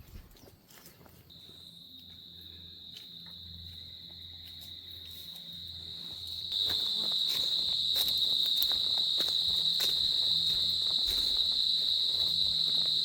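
An insect's steady, unbroken high-pitched buzz. It starts about a second in, swells, and grows suddenly louder about six and a half seconds in.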